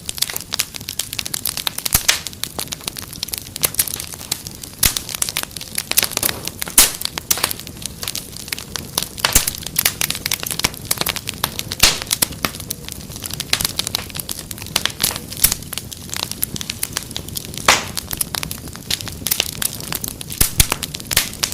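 Fireplace fire crackling, with many sharp irregular pops and snaps over a steady low hiss.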